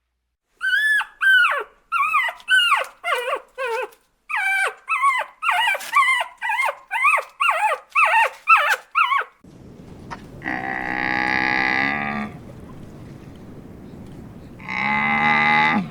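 A rapid run of about twenty short, high animal calls, each falling in pitch, two or three a second. After a cut come two long, low moos from cattle, the first about a second and a half long, the second shorter.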